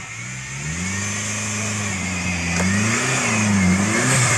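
Car engine revving, its pitch climbing about a second in and then rising and falling several times as the throttle is worked.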